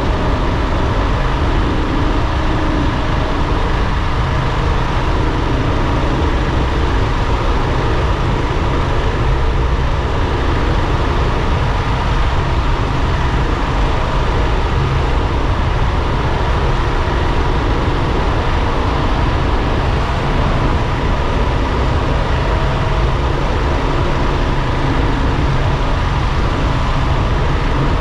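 Steady driving noise from a moving vehicle: engine and low road and wind rumble, with a faint steady whine running through it.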